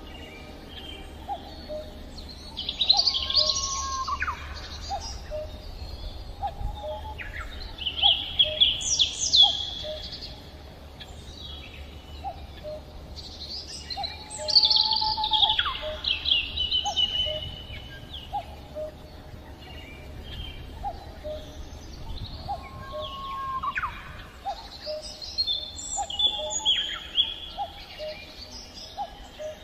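Songbirds singing and calling in loud bursts of rapid high chirps and sweeping notes. Underneath runs a regular pattern of short, lower notes about once a second.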